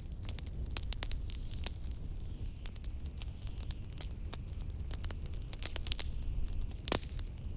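Wood fire crackling with frequent sharp pops, the loudest about seven seconds in, over a steady low rumble of wind.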